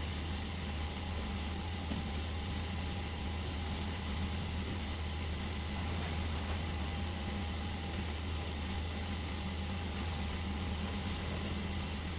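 Steady low rumble and road noise of a moving vehicle, running evenly without change.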